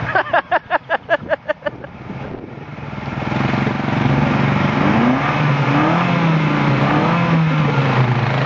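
A quick run of about nine short, high-pitched pulses, then from about three seconds in a demolition derby car's engine running loudly and revving, its pitch rising and falling.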